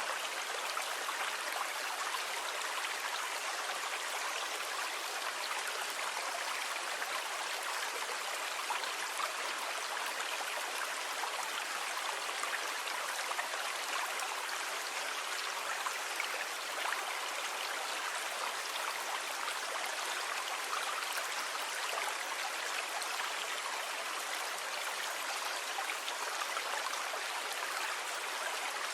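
Continuous rushing water, an even hiss that stays steady throughout without the rise and fall of separate waves.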